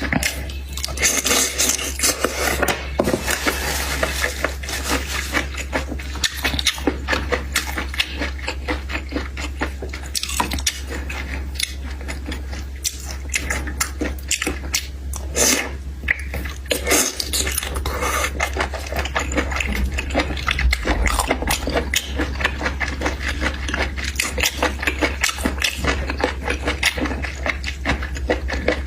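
Close-up eating sounds: continuous crunching, cracking and chewing of seafood, with dense rapid clicks and a low hum underneath.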